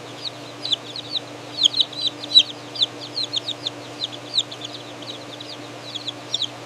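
Many young chicks peeping together: a dense stream of short, high, downward-falling cheeps, over a steady low hum.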